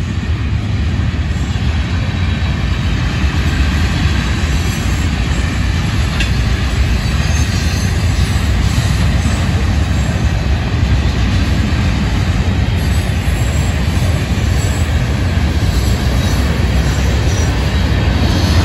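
Florida East Coast Railway freight train rolling past, a steady rumble of its cars on the rails.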